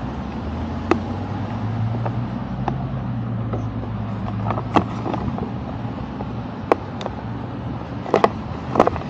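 A motor vehicle's engine running steadily, a low even hum, with scattered sharp clicks and taps of equipment being handled.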